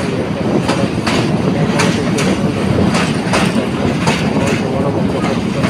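Passenger train running over a railway bridge: a steady loud rumble with the wheels clacking over rail joints in quick pairs, a few times a second.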